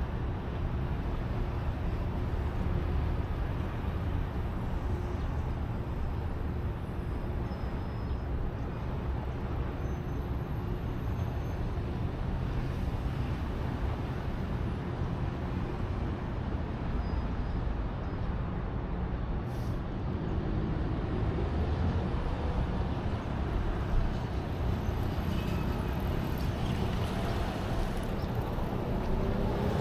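Steady low rumble of traffic and road noise heard from a moving bicycle. Near the end a rising tone comes in and the sound grows louder.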